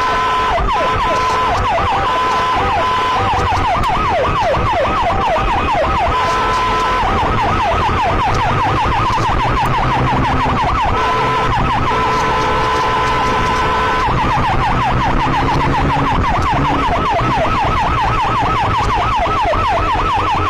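Police motorcycle siren, switching several times between a steady held tone and a fast rising-and-falling yelp, over engine and road noise during a chase.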